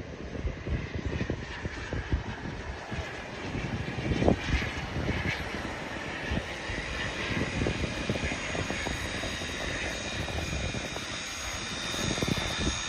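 Twin Kingtech K45TPG4+ model turboprop engines running on an RC OV-10 warbird, an uneven rumble with a thin high whine that grows clearer in the second half.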